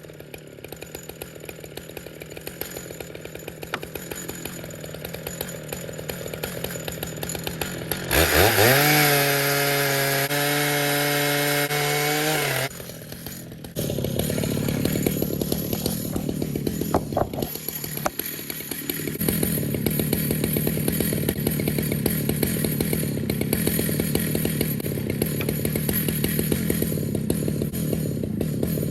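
Two-stroke chainsaw idling, then revved hard about eight seconds in and held at a steady high pitch for about four seconds. After a brief drop it runs on, lower-pitched and noisier, as it cuts through a log in a slab-milling pass.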